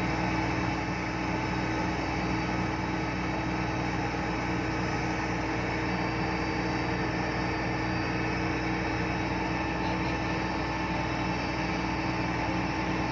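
Epiroc DM45 blasthole drill rig's diesel engine running steadily with an even hum.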